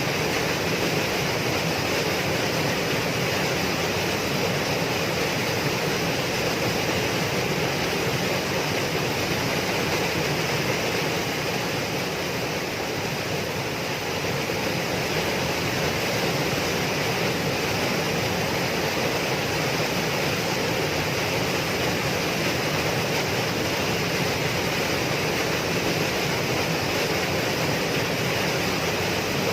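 Waterfall: a steady rush of falling water with no breaks or changes.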